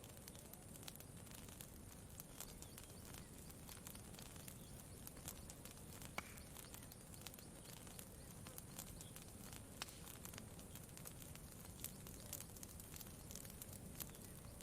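Campfire crackling faintly, with irregular sharp pops, a few louder ones about six and ten seconds in, over a low steady background hum.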